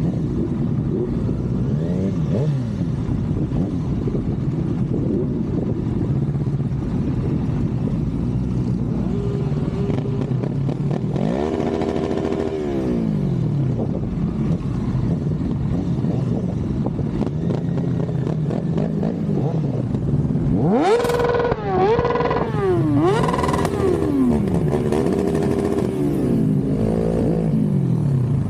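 Motorcycle engines running and revving in a group pulling away. About twenty seconds in, one bike accelerates hard, its pitch rising in steps broken by quick drops as it shifts up through the gears.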